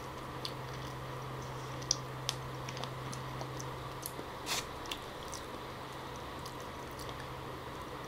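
Close-up mouth sounds of someone chewing soft wild jackfruit pulp, with small wet clicks and smacks scattered through, over a faint steady low hum.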